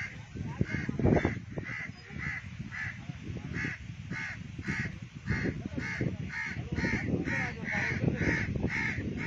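A bird calling over and over, a short harsh call about twice a second, over a low rumble.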